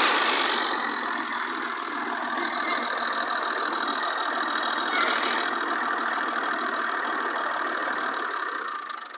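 Tractor engine running steadily, a little louder at first, fading away near the end.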